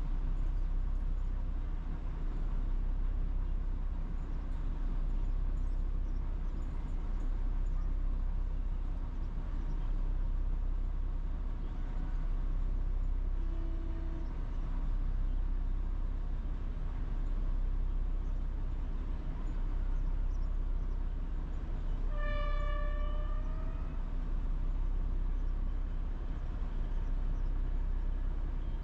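Steady low rumble with two train horn sounds over it: a short, low toot about halfway through, then a longer, higher horn note about three-quarters of the way in that bends upward at its end.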